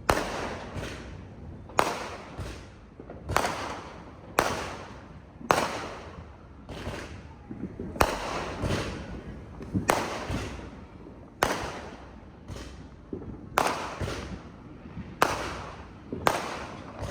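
Fireworks going off close by: more than a dozen sharp bangs, each trailing off in an echo, about one or two a second, some coming in quick doubles.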